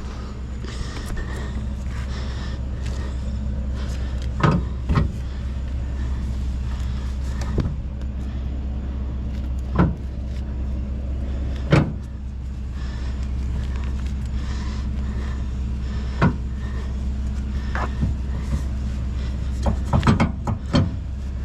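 A truck engine idling steadily. About ten sharp knocks and clanks sound over it at irregular intervals, clustered near the end.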